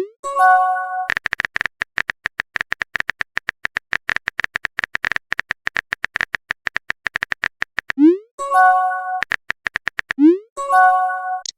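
Phone texting sound effects: a short rising pop and a brief chime as a message appears, then a long run of rapid typing clicks for about seven seconds, then two more pops with chimes near the end.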